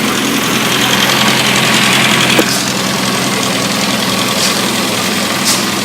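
Freshly rebuilt 1380 cc Mini A-series four-cylinder engine running steadily on a test stand, smooth and even, with no sign of trouble.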